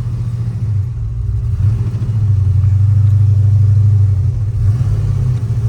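Truck engine running while the truck is driven to warm it up, with a steady low drone that grows louder about two seconds in and eases off near the end.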